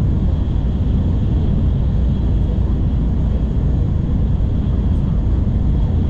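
Steady low running rumble of an N700 Series Shinkansen, heard from inside the passenger cabin, with a faint high whine over it.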